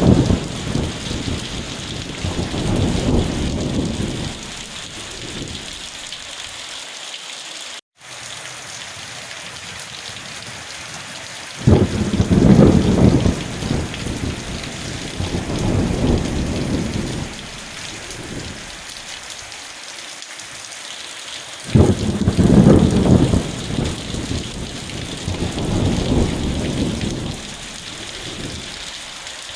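Steady heavy rain with rolls of thunder: three rumbles, one at the start, one about twelve seconds in and one about twenty-two seconds in, each starting suddenly and dying away over several seconds.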